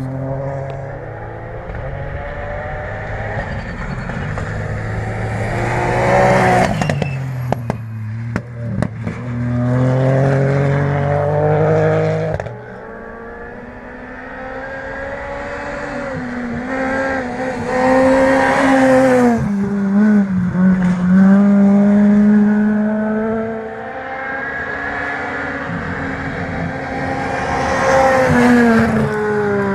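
Rally cars on a gravel special stage, engines revving hard and dropping as they shift through the gears, with a burst of sharp cracks and pops about seven to nine seconds in. After a sudden drop in level near the middle, another car comes up, shifts down around twenty seconds in and climbs in revs again near the end.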